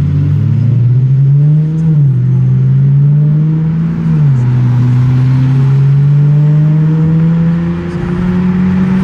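A car engine accelerating hard through the gears. Its note climbs, drops sharply at an upshift about two seconds in and again about four seconds in, then climbs slowly and steadily in the next gear.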